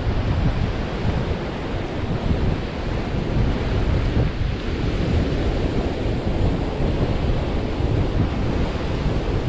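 Wind buffeting the microphone over ocean surf breaking on the beach, a loud rough rumble with no pauses.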